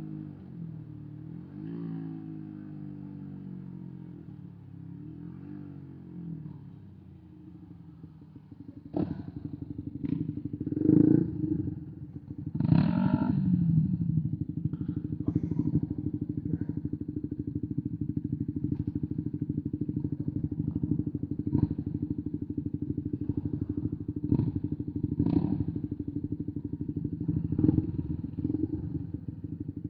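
A 125 cc single-cylinder motorcycle engine falls in pitch as the revs drop over the first several seconds. About nine seconds in it settles into a steady low-rev run with rapid firing pulses, and a few short knocks and clatters come through on top.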